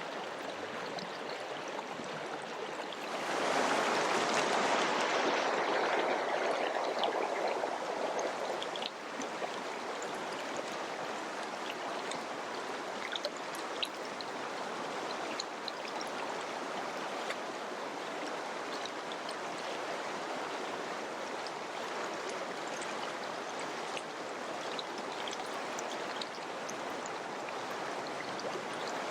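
Mountain river rushing in a steady flow, with small splashes and droplet ticks throughout. The water grows louder about three seconds in and falls back to its earlier level about six seconds later.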